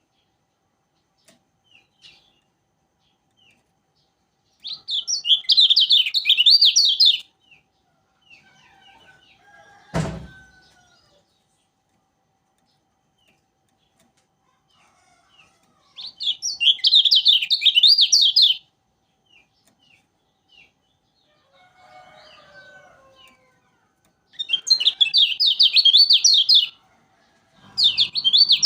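Kecial kuning white-eye singing in three loud bursts of rapid, high chattering chirps, each two to three seconds long, with soft single calls in the pauses and a fourth burst starting near the end. A single sharp knock about ten seconds in.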